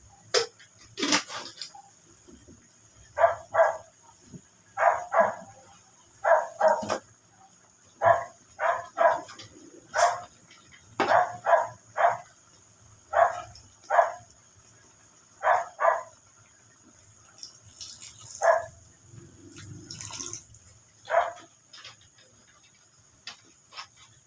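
A dog barking repeatedly in short barks, often two in quick succession, with a few sharp clicks or knocks in between.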